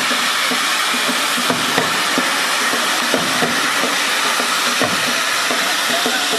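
Hand-held tezutsu bamboo-tube firework spraying its fountain of sparks: a loud, steady rushing hiss with small crackles scattered through it.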